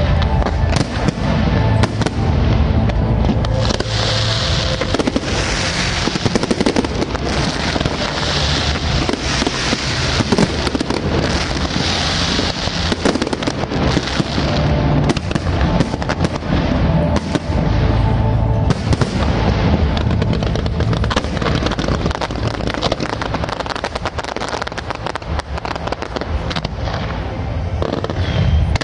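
Fireworks display: rapid, overlapping bangs from aerial shells and bursts of crackling from glittering stars and rising comets.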